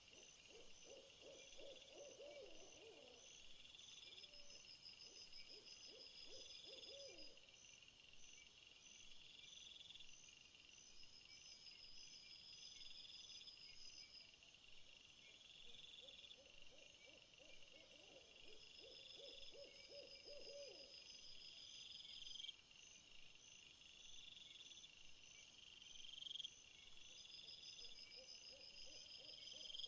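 Faint nature ambience of insects chirping in steady, repeating high trills, with a lower pulsed animal call coming and going about four times.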